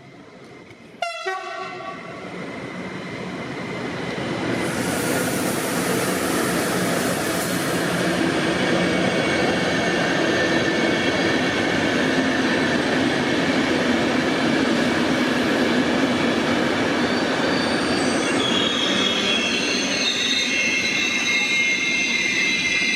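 A train running on the rails, growing louder over the first few seconds and then holding a steady, loud rumble, with a sudden sharp tonal sound about a second in. High-pitched wheel squeal comes in near the end.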